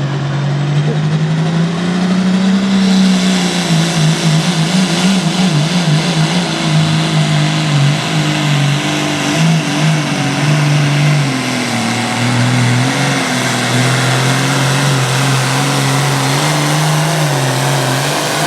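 Classic super stock pulling tractor's diesel engine running hard under load down the track. The engine note wavers up and down and dips briefly about two-thirds of the way through.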